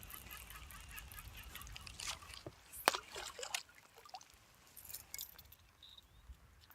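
Faint clicks and knocks of gear being handled in a small fishing boat, with light water sloshing. The sharpest click comes about three seconds in, and geese honk faintly at the start.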